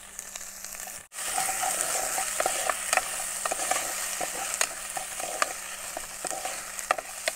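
Tomatoes and onions sizzling as they fry in an open pressure cooker on a portable gas stove. A steel ladle stirs and clicks against the pot over and over, with a short break in the sound about a second in.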